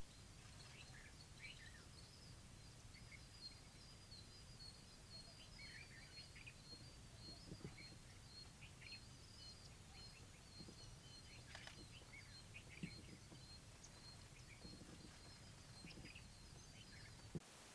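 Faint outdoor ambience: scattered short bird chirps over a steady, high, rapidly pulsing trill that runs most of the way through.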